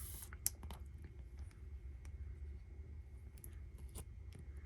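Faint handling of baseball trading cards: light, scattered clicks and taps, the sharpest about half a second in.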